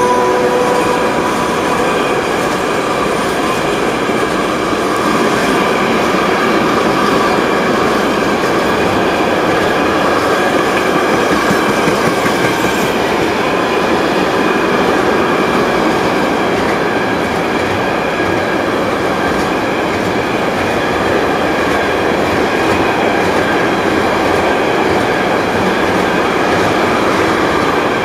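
Container freight wagons rolling past close by: a steady, loud rumble of steel wheels on the rails. The electric locomotive's hum fades out about a second in.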